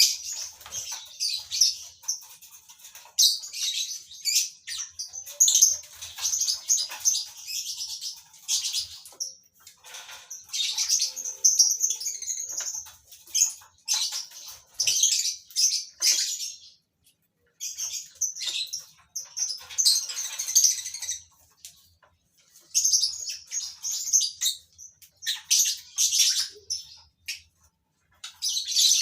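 A colony of lovebirds chattering in shrill bursts of high-pitched calls, broken by a few short pauses.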